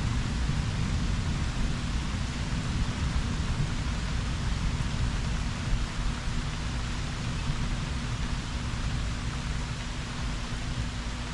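Steady rain falling, with the low rumble of thunder easing off slowly underneath.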